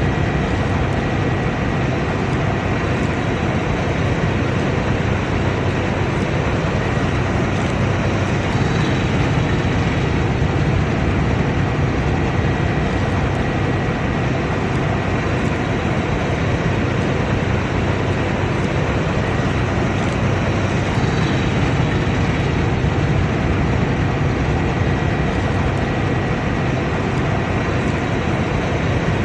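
Combine harvester running steadily under load: a deep, even machine drone with a faint steady high whine over it.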